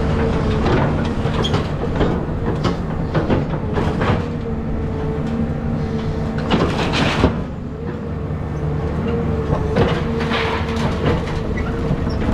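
Caterpillar 323 hydraulic excavator running steadily with a constant hydraulic whine, over scattered cracks, knocks and crashes of house debris being broken and moved, the biggest crash about halfway through.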